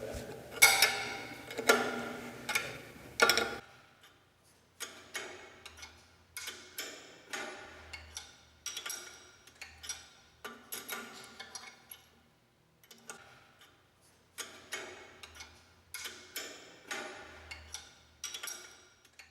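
Wrench clicking as it turns the nuts on the motor tensioner screws of an abrasive cutoff saw, in short runs of metal clicks that are louder for the first few seconds and fainter after. The motor is being walked forward to slacken the drive belts.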